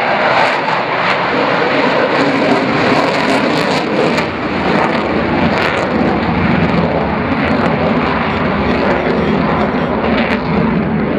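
Eurofighter Typhoon's twin jet engines during a flying display: loud, steady jet noise with a deep rumble under a hiss, the rumble growing heavier about four seconds in.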